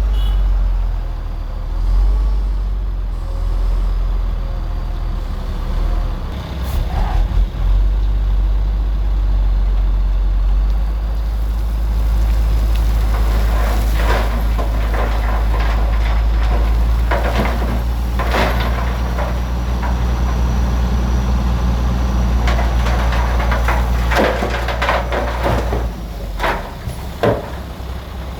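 Bulldozer's diesel engine running steadily with a deep rumble, joined from about halfway on by repeated sharp metallic clanks and scrapes from the tracks and blade.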